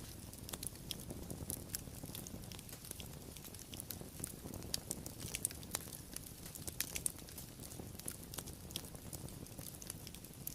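Wood fire crackling: a steady low rumble of burning with frequent irregular snaps and pops, a few louder ones now and then.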